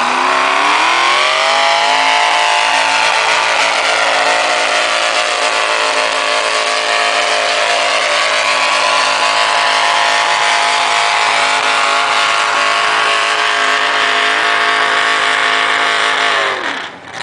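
Pulling tractor's engine revving up over the first couple of seconds, then held at full throttle at a steady high pitch under the load of a pull. The throttle comes off near the end and the engine quickly winds down.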